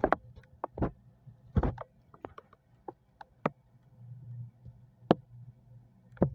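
Refrigerator humming steadily and low, with irregular sharp clicks and knocks on top, the loudest at the start, about one and a half seconds in and about five seconds in.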